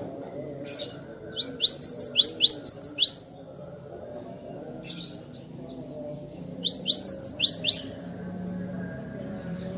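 Cinereous tit (glatik batu) singing: two quick runs of sharp, rising whistled notes, about seven in the first run and five in the second a few seconds later.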